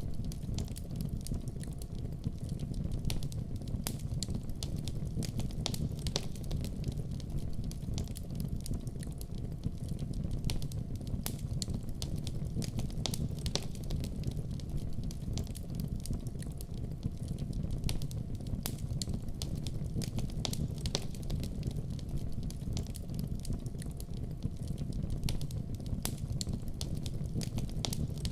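Wood fire in a fireplace burning steadily, with a constant low rumble of flames and many sharp pops and crackles scattered throughout.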